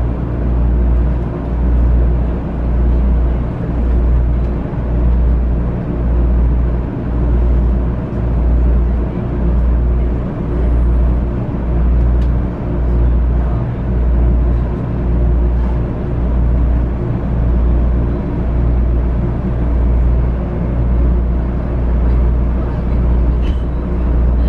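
Running noise inside a JR West 500 series Shinkansen car: a deep rumble that swells and fades in a regular pulse, roughly once a second, with steady even-pitched hum tones over it.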